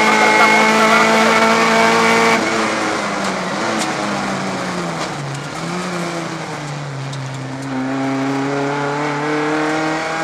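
Rally car engine heard from inside the cockpit at full load, holding a steady high pitch, then the revs drop sharply about two seconds in. The engine note dips and wanders through a slower stretch, then climbs back to a steady high pitch near the end, over continuous road and wind noise.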